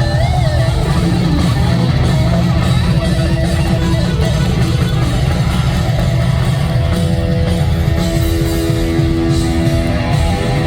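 Live rock band playing, with electric guitar to the fore over bass and drums; a few bent guitar notes at the start, then long held notes from about two-thirds of the way in.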